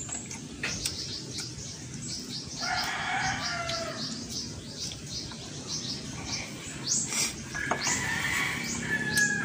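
Birds calling over quick repeated high chirps, with a longer pitched call about three seconds in and a drawn-out steady call near the end.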